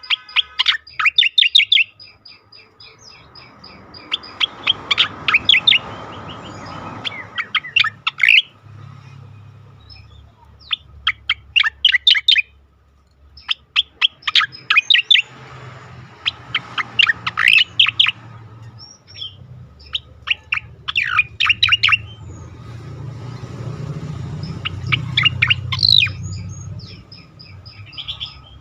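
Striated grassbird (cica koreng) singing loud, fierce phrases of rapid, sharp chattering notes. A new phrase comes every couple of seconds after a short pause, over a faint low rumble.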